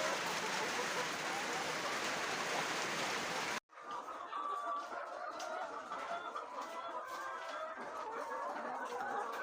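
A flock of laying hens clucking together, many overlapping calls. For the first few seconds they are mostly covered by a steady hiss, which then cuts off abruptly and leaves the clucking clear.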